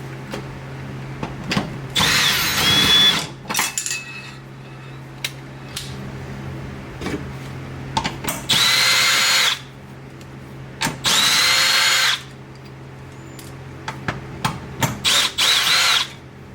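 Handheld power drill run in four short bursts of about a second each, its motor whining, with small clicks and knocks of tools between the bursts and a steady low hum underneath.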